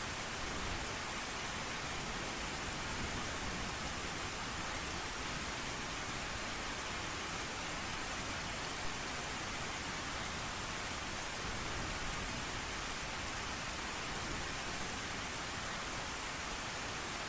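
Steady rain falling, an even hiss of dense drops with no break in it.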